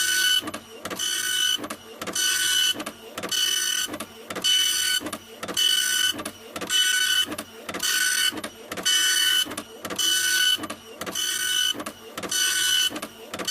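Printer running continuously, its print head sweeping back and forth about once a second. Each pass is a high motor whine, with short clicks in between.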